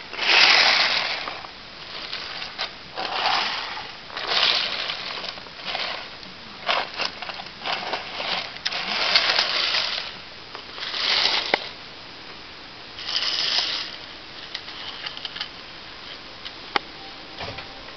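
A small die-cast ERTL Thomas toy engine being pushed by hand along plastic toy track. It makes a rolling, scraping rattle in about half a dozen short runs, with scattered sharp clicks between them.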